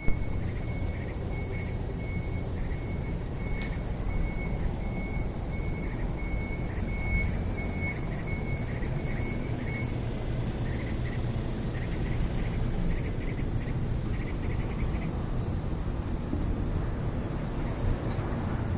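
Baby birds peeping: a short high note repeated steadily for the first half, then quick rising chirps about twice a second through the middle, over a steady low rumble.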